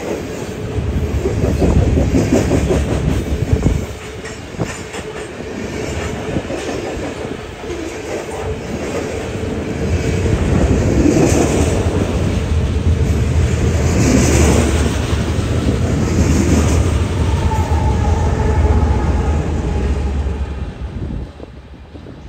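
Train passing close by on the BNSF main line: a steady heavy rumble with the clickety-clack of wheels over the rail, loudest in the middle, dying away near the end.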